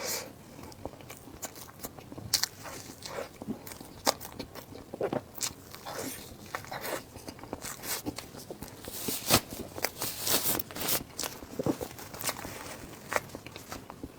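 Close-miked eating: irregular bites and chewing with crisp crunches and crackles, several a second, with a cluster of louder crunches about nine to eleven seconds in.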